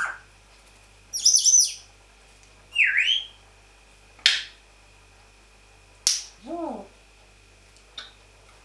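African grey parrot making a string of separate noises: a cluster of high whistles about a second in, a dipping whistle around three seconds, and a sharp click around four seconds. Another click near six seconds leads into a lower, falling call.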